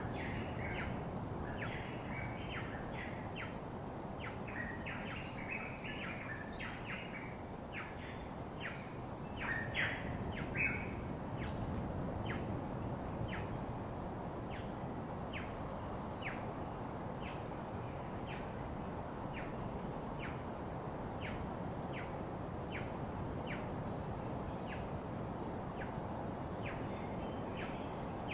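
Birds chirping: a dense cluster of short high calls in the first ten seconds, then a sparser, fairly regular run of single short notes, over a steady low rushing background.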